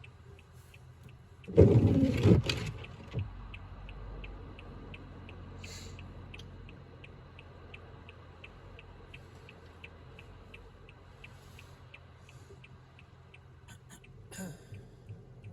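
Car turn-signal indicator ticking steadily, about three ticks a second, over the low hum of the car's interior. About a second and a half in comes a loud rushing, rumbling burst lasting about a second, which dies away into a low rumble.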